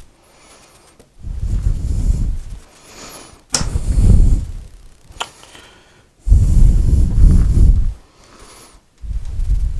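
Wooden panels being slid and rubbed into place during a dry fit, in four scraping bursts about a second long each, with a couple of sharp knocks.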